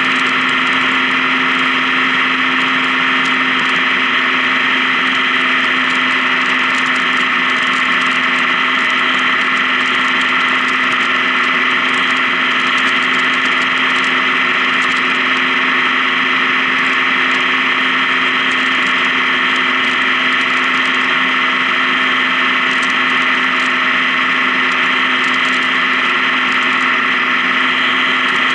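Honda Gold Wing touring motorcycle engine running steadily at an even cruising speed, a constant unchanging drone.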